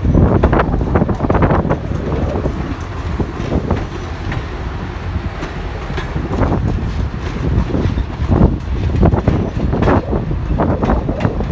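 Passenger cars of an excursion train rolling past at low speed, the wheels clicking and clacking over the rail joints over a steady low rumble.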